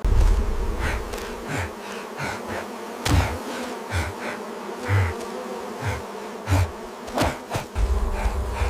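A swarm of bees buzzing steadily, broken by several dull low thumps and a couple of sharp cracks.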